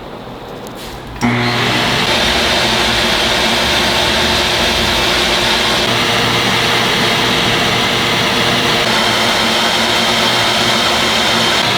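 A workshop electric motor switches on about a second in and runs steadily at speed, with a low hum under a rush of air.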